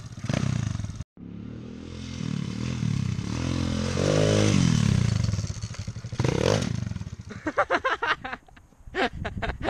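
Pit bike engine revving hard: its pitch climbs for a few seconds, then falls away as the throttle is let off, during a wheelie attempt made by dumping the clutch in second gear.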